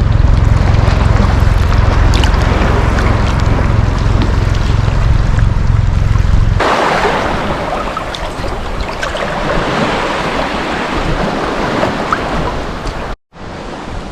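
Sea waves washing on a sandy beach. Wind rumbles on the microphone for the first six and a half seconds, then stops abruptly, leaving the wash of the water. The sound cuts out briefly near the end.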